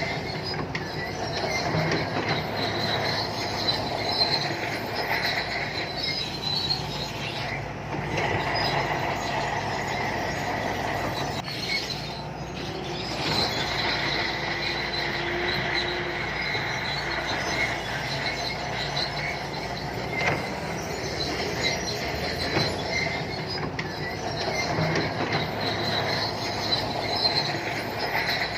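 Shantui crawler bulldozer working: its diesel engine runs steadily under the high, continuous squeal and clatter of its steel tracks.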